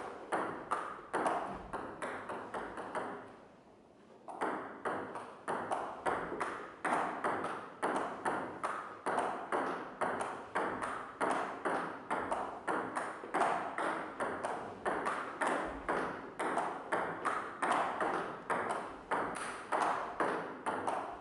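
Table tennis rally: the ball clicking sharply off paddles and table in a quick, even rhythm of two to three hits a second. It stops for about a second and a half early on, then resumes.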